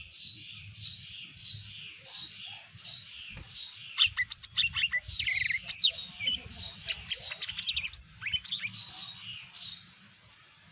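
Cucak ijo mini (leafbird) singing: a run of short, evenly spaced chirps about two a second, then from about four seconds in a loud, fast, varied string of sharp sweeping notes that stops shortly before the end.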